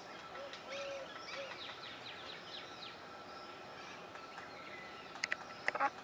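Wild birds chirping in the tree canopy, a run of quick falling chirps in the first half over a steady thin tone. A few sharp taps near the end are the loudest sounds.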